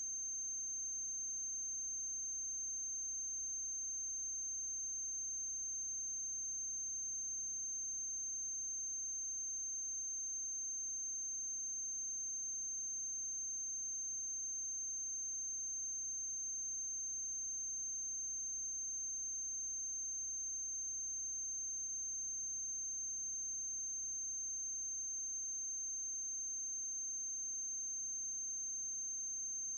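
Steady high-pitched whine with a faint low hum underneath, unchanging throughout: electrical noise on the soundtrack of a silent film transfer, with no other sound.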